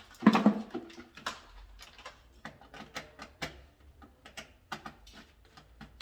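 Irregular clicking and tapping of small hand tools and wiring parts being handled while a control panel is wired. A louder knock comes just after the start.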